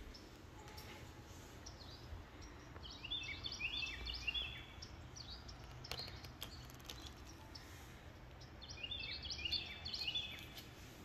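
A songbird singing twice, each phrase a quick run of short, high, downward-sliding chirps, a few seconds apart, over faint outdoor background noise.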